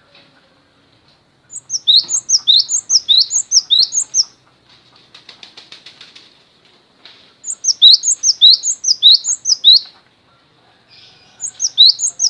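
A songbird singing in bouts of sharp, rising high notes repeated about three times a second, about eight notes to a bout, three bouts in all, the last running on past the end. Between the first two bouts comes a softer, fast rattle.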